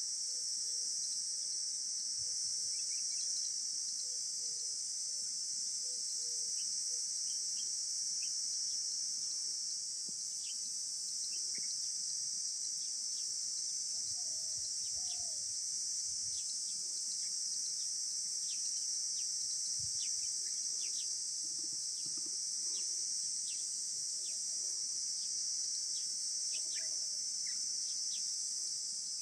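Steady high-pitched insect chorus, crickets or cicadas, running unbroken, with many short bird chirps scattered over it.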